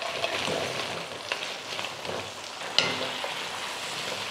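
Tomato and bell-pepper sauce sizzling in a wok as fried chicken pieces are tipped in. Near the end a wooden spatula starts stirring. A couple of sharp knocks against the pan come about a second in and near three seconds.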